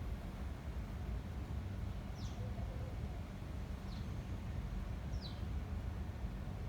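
Wind rumbling steadily on the microphone in a garden, with a small bird giving three short, high chirps that fall in pitch, about two, four and five seconds in.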